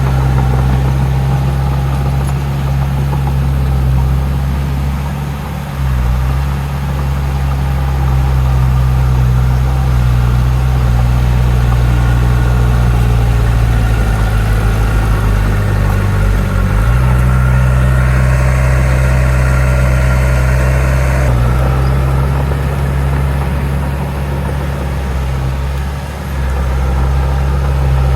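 Heavy diesel earthmoving machinery running steadily with a deep engine drone. The engine note shifts briefly about halfway through.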